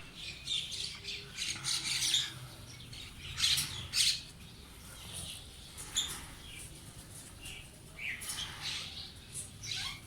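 Birds calling in short, harsh bursts every second or two.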